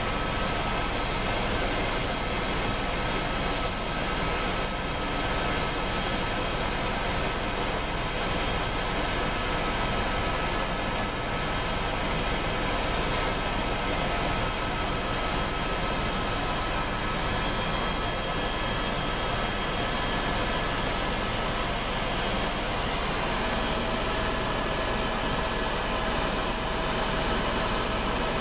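Helicopter engine and rotor noise, steady and loud, with a few high whining tones held throughout.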